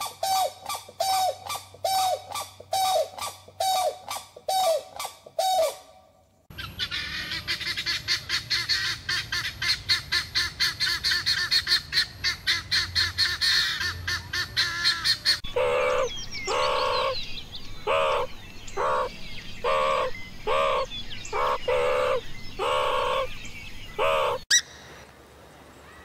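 Grey crowned cranes honking, a call about twice a second, then a sudden change to guineafowl in a dense high-pitched chatter. About 15 s in this gives way to a loud call repeated roughly once a second.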